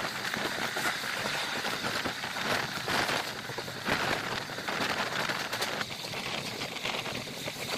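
Steady rushing and rattling of a moving train heard at an open coach door: wheels running on the track with wind noise, full of quick fine clicks.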